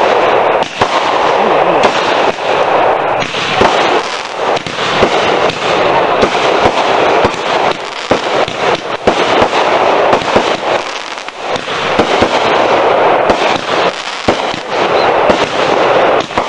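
Aerial consumer fireworks going off without a break: rapid, overlapping bangs and pops from bursting shells, with dense crackling between them.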